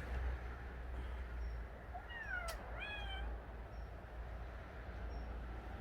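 A cat meowing twice in quick succession, about two seconds in, the first call dipping then rising and the second rising and levelling off.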